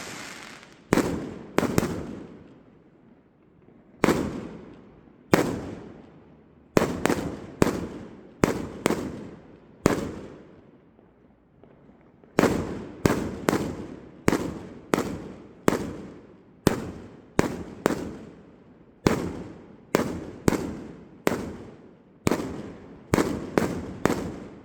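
Fireworks going off: a long string of sharp bangs, each echoing away over about a second, coming irregularly, with short lulls and then a rapid run of explosions in the second half.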